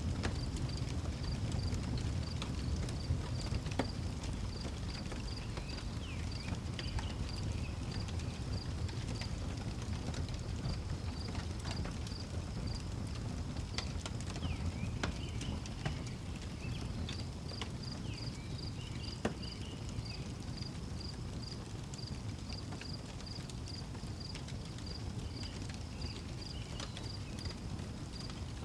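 Outdoor wood fire crackling, with scattered sharp pops over a low steady rumble. Crickets chirp in an even, unbroken rhythm, and faint short calls come in now and then.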